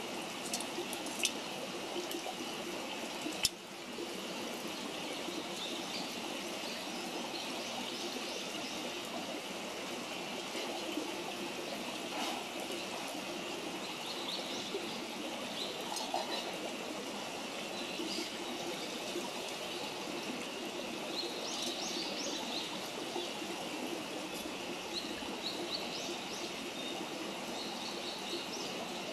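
Wood campfire burning, with a few sharp crackling pops, the loudest a little over three seconds in, over a steady rushing hiss like running water. A few short high chirps, likely birds, come in the latter half.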